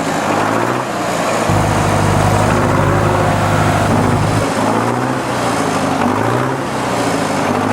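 Heavy vehicle engine revving repeatedly, each rev a rising whine. About a second and a half in it settles into a deeper steady drone for around three seconds, then the rising revs return.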